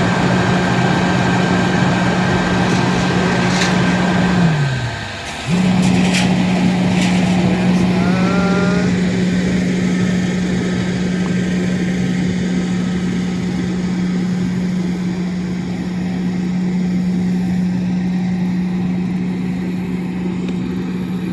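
A vehicle engine running with a steady hum. About five seconds in, its pitch sinks and it drops out for a moment, then it comes straight back at the same pitch.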